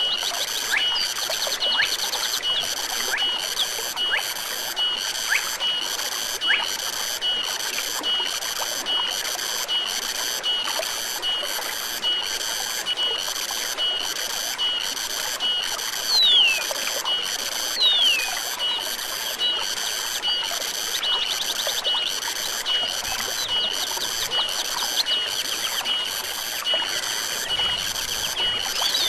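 Forest stream trickling steadily, with a high pulsing animal call repeating at an even pace nearly twice a second, and two falling whistled bird calls about halfway through.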